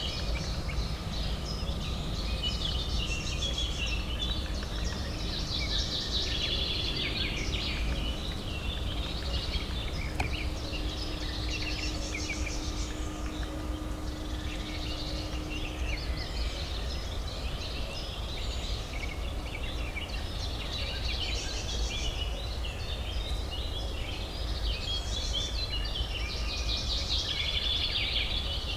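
Many small birds chirping and chattering in dense, overlapping bursts over a steady low hum of distant city traffic. A faint steady drone runs underneath for several seconds in the middle.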